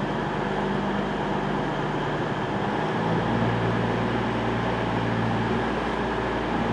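CrossCountry class 221 Super Voyager diesel unit's underfloor diesel engines running with a steady, low hum. The engine note changes about three seconds in.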